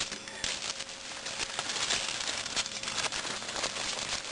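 Aluminum foil crinkling as it is folded by hand around a food packet, a continuous run of small crackles.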